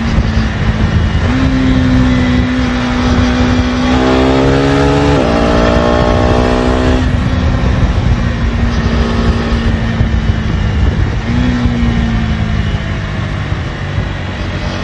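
KTM Duke 250 Gen3's single-cylinder engine through its stock exhaust while riding. The note holds steady, climbs as the throttle opens about four seconds in, drops suddenly as it shifts up, then eases off, with a short rise and fall again near the end. A steady rush of road noise runs beneath it.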